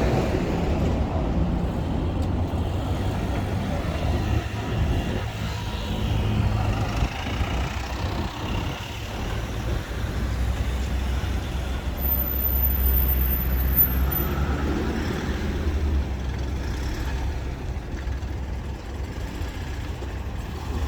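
City road traffic, cars and trucks passing, heard as a steady low rumble with engine and tyre noise.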